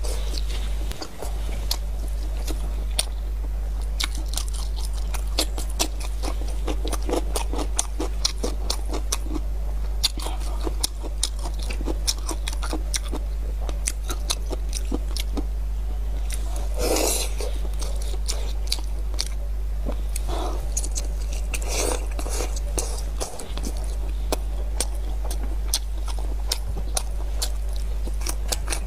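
Person chewing and biting pork ribs: many small wet mouth clicks and smacks, with a steady low hum underneath.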